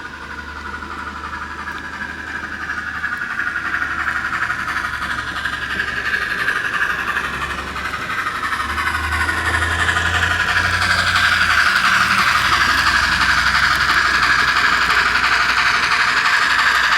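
N scale model train running along the track with a steady mechanical whir and rattle, growing louder about halfway through as it comes closer.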